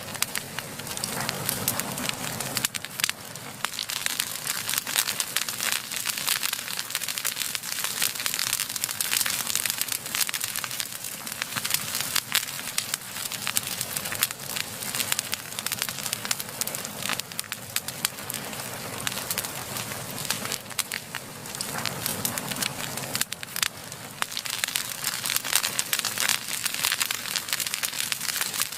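Open fire crackling steadily, with a dense, continuous run of sharp pops and snaps.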